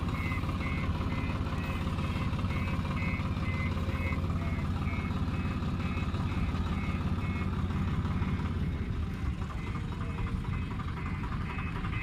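A JCB's diesel engine running steadily with its reversing alarm beeping about twice a second. The beeping stops about seven and a half seconds in, and the engine note eases soon after.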